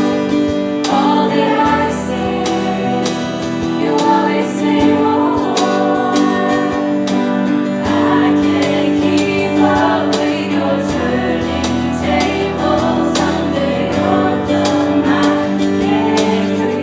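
A show choir ensemble performing live: instruments, including guitar, playing with sustained voices and wavering sung lines, without clear words.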